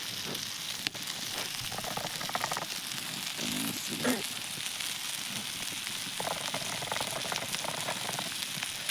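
Steady sizzling hiss of food cooking over a fire, with faint voices now and then.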